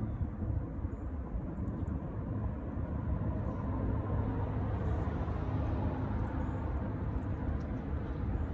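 Steady low outdoor rumble, with a few faint high ticks.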